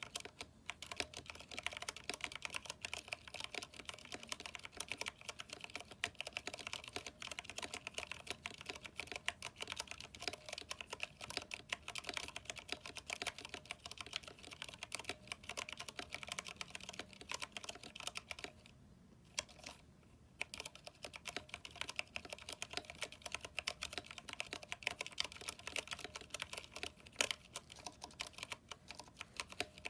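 Fast, continuous typing on a Vortex 10th Anniversary Edition mechanical keyboard with Cherry MX Brown switches and thick NP PBT keycaps. The key clicks are dense and even, with a brief pause of about two seconds a little past halfway.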